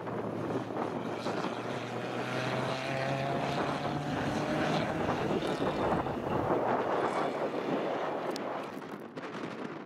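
Rally car's engine heard at a distance as the car drives away, its note rising as it accelerates and easing off near the end.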